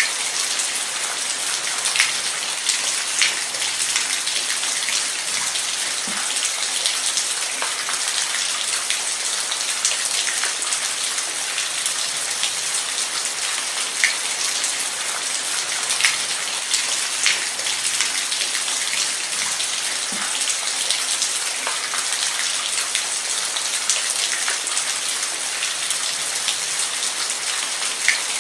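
Steady rain falling on a surface: a dense, even hiss with scattered louder drops tapping every second or two. No thunder.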